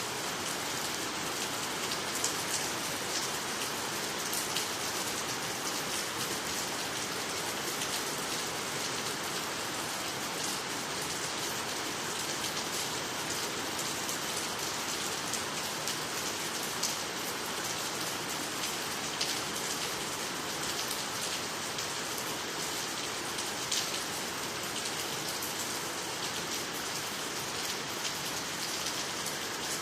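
Steady rain falling on water, trees and the ground, a continuous hiss with many small drop impacts.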